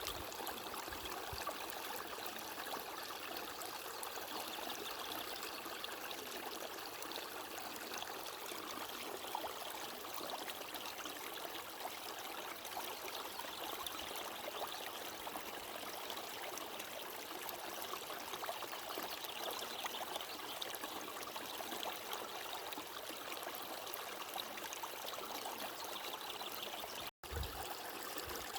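Steady rush of flowing water, a stream running and trickling. It cuts out for an instant about a second before the end, with a brief low thud as it resumes.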